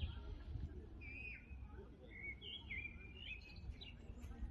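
Songbirds singing a series of short, whistled phrases that glide up and down in pitch, over a low background rumble.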